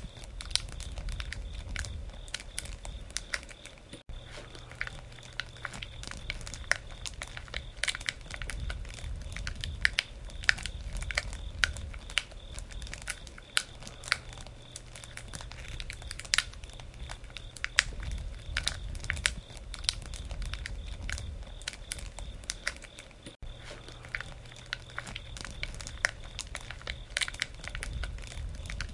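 Wood campfire crackling, with frequent irregular sharp pops over a low rumble.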